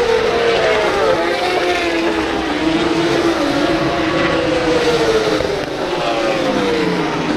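Several superbike racing motorcycles passing at speed, their engine notes overlapping and dropping in pitch as each goes by.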